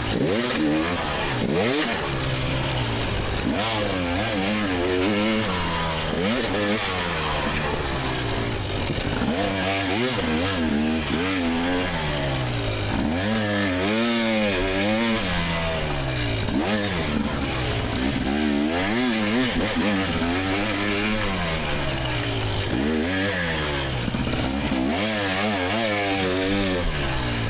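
2024 GasGas EX300 two-stroke dirt bike engine being ridden hard, revving up and down repeatedly with throttle and gear changes.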